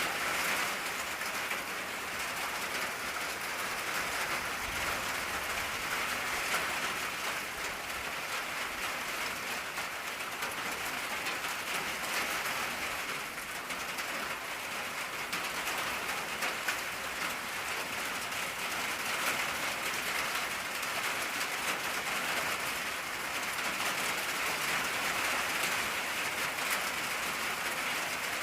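Steady rain falling on an old tin roof: a dense, even patter of drops, strongest in the upper middle of the range, with no pauses.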